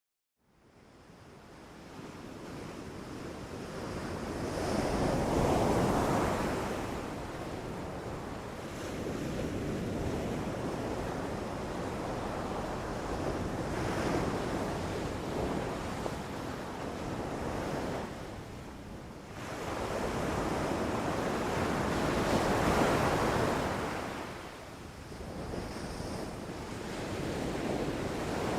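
Wind sound effect: a rush of wind that fades in from silence and swells and eases in slow gusts, strongest about five seconds in and again a little past twenty seconds.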